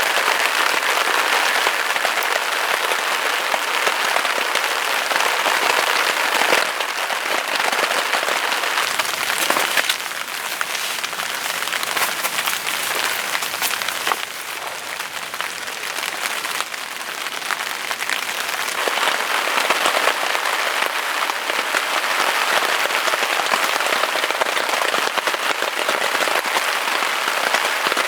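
Heavy rain falling, a dense hiss of countless drops, stepping louder or softer a few times.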